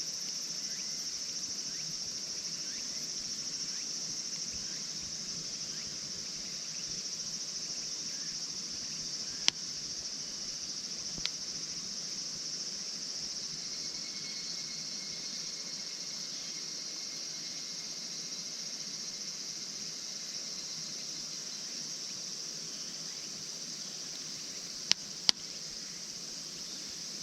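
Steady high-pitched chorus of insects singing. A few sharp snaps of burning wood in the campfire cut through it: one about nine seconds in, a fainter one soon after, and two in quick succession near the end.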